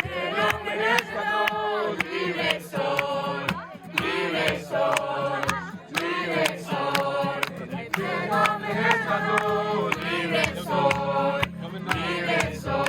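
A group of young voices singing a praise song together, with sharp regular beats keeping time under the singing.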